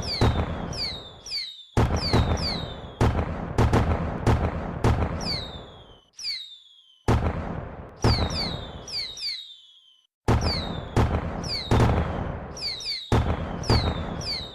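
Fireworks going off in a rapid series: sudden booming bursts, each set off with several high whistles that fall in pitch. The bursts start and stop abruptly in a repeating pattern, with short gaps of near silence at about 1.5, 6.5 and 10 seconds in.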